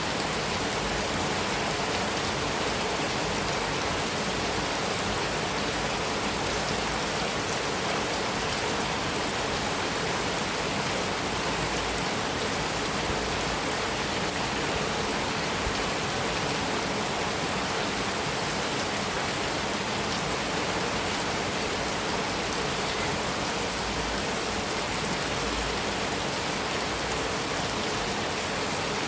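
Heavy rain falling steadily on a metal roof, an even, unbroken hiss of drops.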